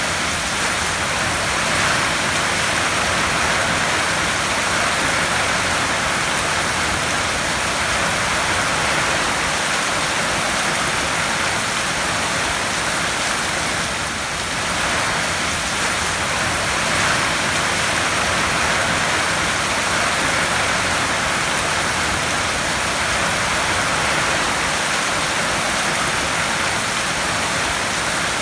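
Heavy rain drumming on a tin roof: a steady, dense hiss that swells and eases slightly every few seconds.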